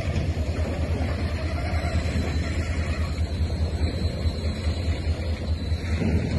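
Freight train of flat wagons rolling slowly past, a steady low rumble.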